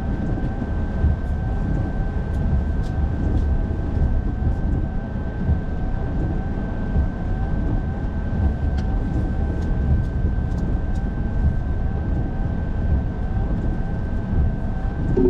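Steady low rumble of road and engine noise inside a moving car, with a thin steady whine running through it.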